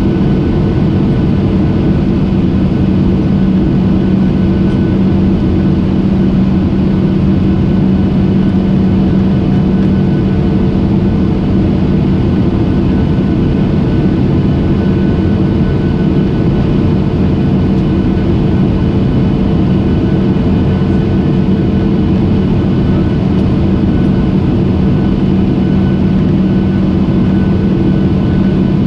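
Airplane cabin noise: a steady drone of engines and rushing air with a constant low hum and a few faint steady tones above it, heard from inside the cabin.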